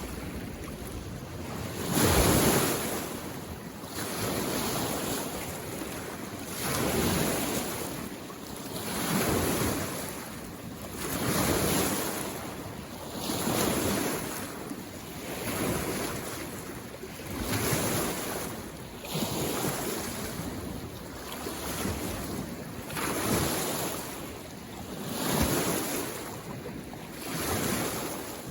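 Small lake waves lapping on the shore, washing in with a regular rhythm of about one wave every two seconds.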